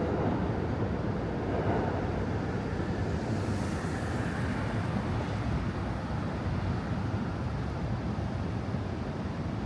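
City street traffic noise: a steady rumble of vehicles, with a hiss that swells briefly about three to four seconds in as one passes.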